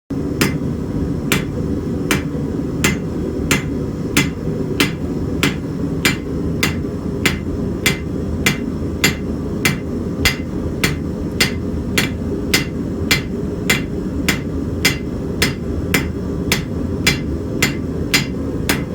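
Blacksmith's hammer striking hot steel on an anvil in an even rhythm, about three blows every two seconds, over a steady low rumble.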